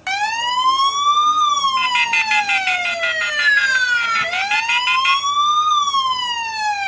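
Electronic siren wailing in a repeating cycle: its pitch sweeps up quickly and falls more slowly, about every four seconds. A second, pulsing siren tone is layered over it in the middle. It starts abruptly.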